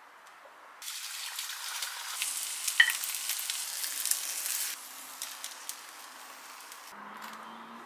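Food sizzling in a hot pan. The sizzle starts suddenly about a second in and stays loud for about four seconds, then drops to a quieter sizzle.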